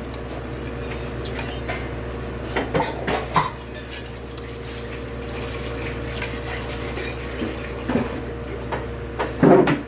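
Spoons and forks clinking and scraping against plates and bowls during a shared meal, in scattered short knocks, with a louder knock near the end. A steady hum runs underneath.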